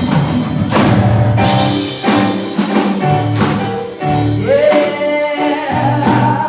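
Live gospel worship music: a band playing sustained chords over bass and drums, with a voice coming in with a held, sliding sung note about four and a half seconds in.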